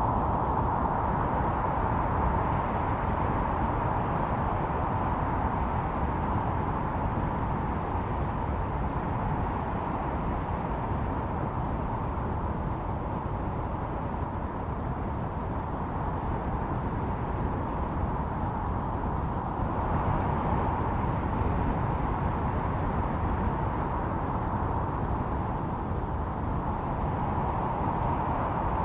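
Blizzard wind howling, a steady rush with a whistling tone that swells in gusts near the start, about twenty seconds in and again near the end.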